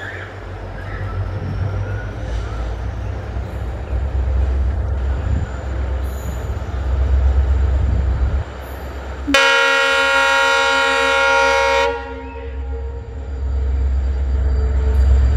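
Twin WDG-4D diesel locomotives, with EMD 16-cylinder two-stroke engines, running with a deep steady hum that grows louder as they approach. A horn blast of about two and a half seconds sounds about nine seconds in.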